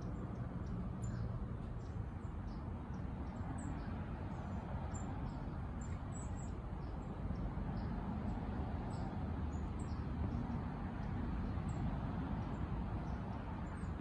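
Short, very high-pitched bird chirps, repeated every second or so, over a steady low background rumble.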